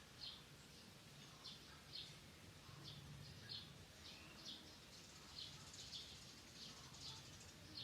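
Faint short bird chirps, repeated irregularly about one to two times a second and coming more often toward the end.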